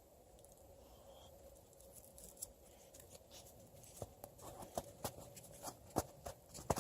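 A knife working a raw carrot: light scraping, then a run of sharp, irregular clicks and crunches as the blade scrapes and cuts, starting about two seconds in and coming thicker near the end.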